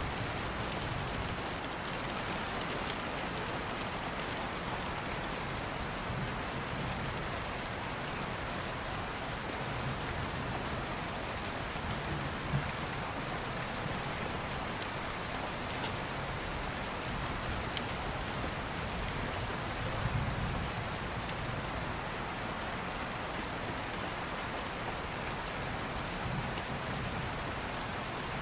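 Steady rain falling, with slow low rumbles of distant thunder swelling now and then and a few sharp clicks scattered through it.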